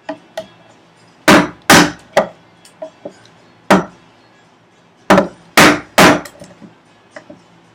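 Chisel struck with a mallet, chopping out the waste of a housing dado in a wooden vise chop: about seven sharp, heavy blows in two bunches, with a few lighter taps between them.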